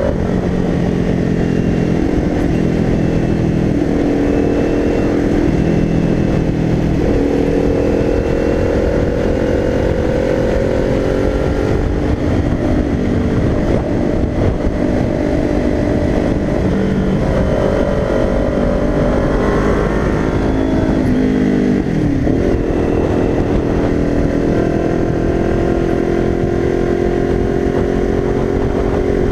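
2022 Kawasaki Ninja 400's parallel-twin engine running under way. Its note climbs and drops back in pitch several times as it accelerates and shifts gears, with a steady wind rush underneath.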